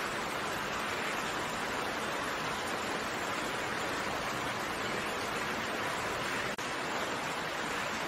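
Steady rain falling as an even hiss with no separate drops standing out. A momentary dropout about six and a half seconds in.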